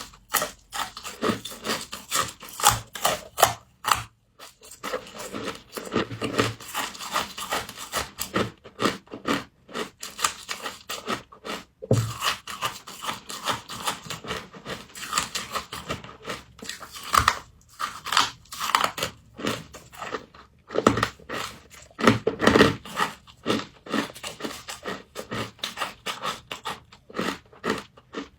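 Close-up crunching and chewing of frost: rapid, irregular crackling bites that run on without a pause.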